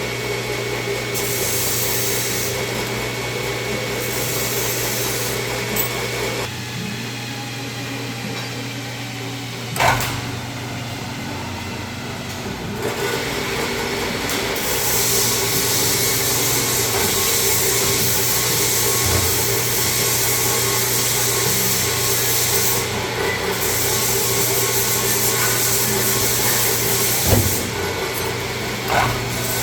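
A power drill with a center drill running steadily, drilling holes in metal, its motor hum constant while the cutting hiss comes and goes. A few sharp knocks stand out, about ten seconds in and twice near the end.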